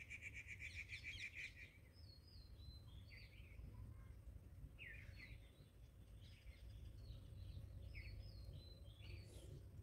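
Birds chirping faintly: a rapid trill in the first second and a half, then scattered short chirps and whistles, over a faint low outdoor background.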